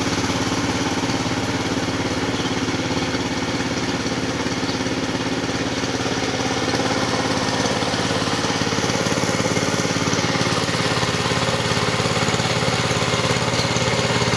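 Engine of a ploughing machine running steadily at an even, constant speed.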